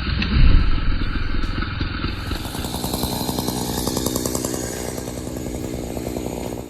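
A deep thump about half a second in, then a chainsaw running steadily at high speed from about two seconds in, cutting off abruptly at the end.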